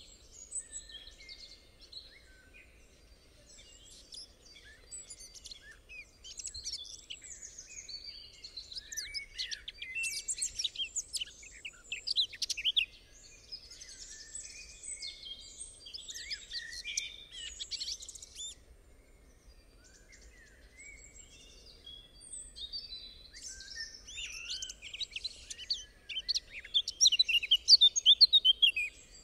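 Songbirds chirping and trilling in a field recording, with quick high notes that crowd together about a third of the way in and again near the end, and quieter spells between.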